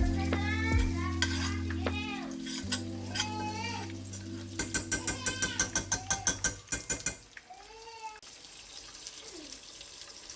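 Kitchen cooking sounds: a utensil clinking against a pan in quick even taps, about four or five a second, for a couple of seconds midway. Near the end, once the background music stops, a faint steady frying sizzle.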